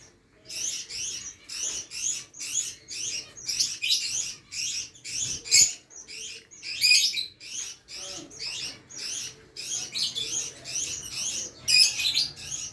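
Pet parrot chirping: a steady run of short, high chirps, about two or three a second, starting about half a second in and going on without a pause.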